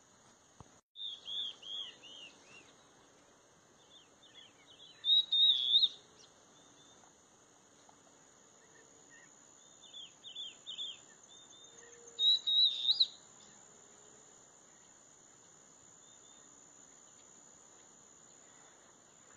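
Birds chirping: four clusters of short, high, arching chirps, the loudest about five seconds in and again about twelve seconds in, over a steady high insect drone.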